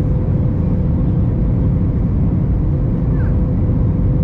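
Steady low roar inside the cabin of an Airbus A321 airliner, with a steady hum running through it.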